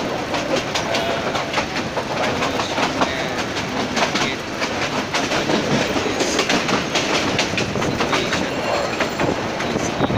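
Train running along the track, heard from on board: a steady rumble with the wheels clattering and clicking over the rails.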